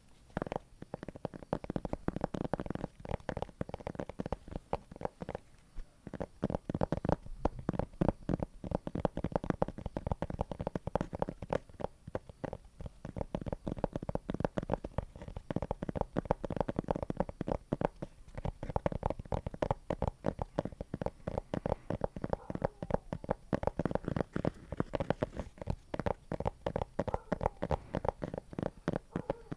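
Close-miked ASMR trigger sound: a dense, rapid crackle of many small sticky clicks, a 'creamy' texture, with brief lulls about six and eighteen seconds in.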